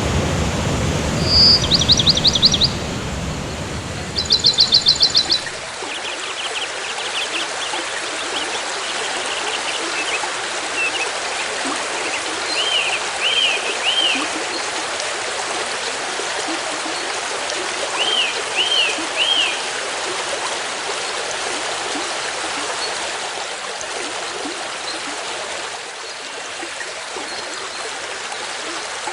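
Forest stream running steadily, with a low rumble in the first five seconds. Birds call over the water: two loud, fast trills early on, then groups of three arching whistled notes twice around the middle.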